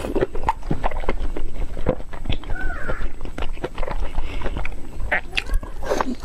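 A person chewing and biting food close to the microphone: an irregular, rapid run of wet clicks and smacks, with a couple of brief voiced sounds in between.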